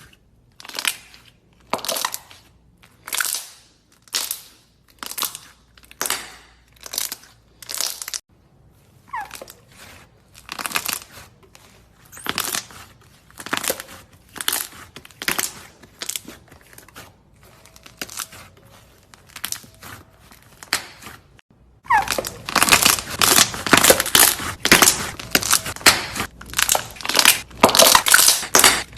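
A crunchy material being squeezed and crushed by hand, in separate crunches about one a second. There is a break about eight seconds in, where a new series begins, and about 22 seconds in it turns into dense, continuous crackling and crunching.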